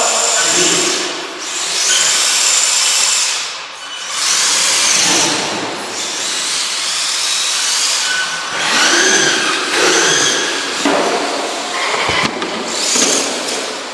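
Electric motors of radio-controlled trucks whining, rising and falling in pitch as the throttle is worked, in surges a few seconds long.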